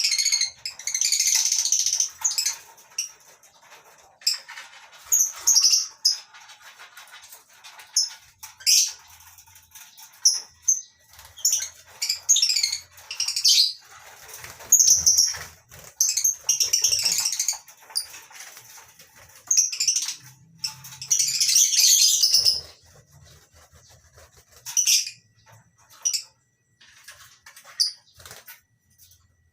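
A flock of lovebirds in a colony aviary chattering in shrill, irregular bursts of high-pitched calls, with short quieter gaps between bursts.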